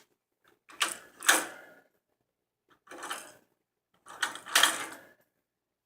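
A plastic toy car used as a peanut holder rattling and clattering in three short rounds as a bird works at it to get the peanut out.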